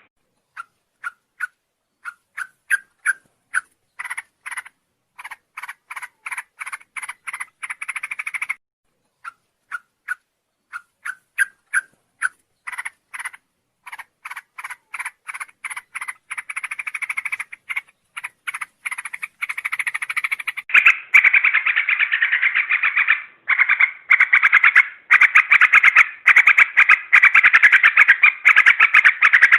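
Sooty-headed bulbul (trucuk) calling in short, sharp notes that start slow and speed up into a quick chatter, twice over. About two-thirds in it breaks into a long, louder run of fast, excited chattering.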